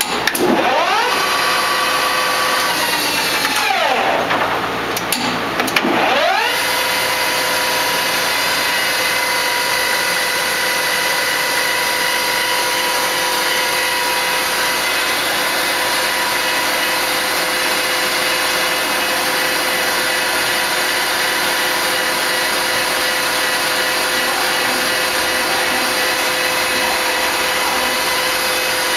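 1996 Bridgeport Romi EZ-Path S CNC lathe spindle and its 7.5 hp spindle motor: a whine that rises as the spindle speeds up, drops as it slows about four seconds in, rises again about six seconds in, then runs steady at speed.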